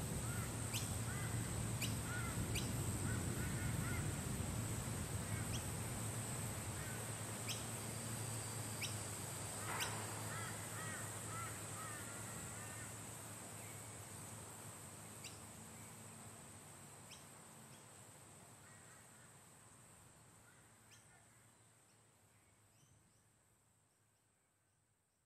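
Bird calls over a steady background noise, scattered chirps and short calls, the whole sound fading slowly away to silence.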